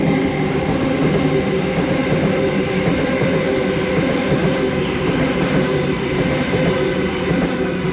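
Sydney Trains B-set (Waratah Series 2) electric multiple unit running past, a steady rumble with a hum of several steady motor tones.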